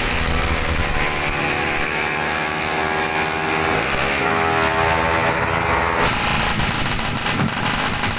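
Two-stroke Kawasaki Ninja 150 motorcycle engines racing at high revs, their pitch rising and falling as they pass. The sound changes abruptly about six seconds in.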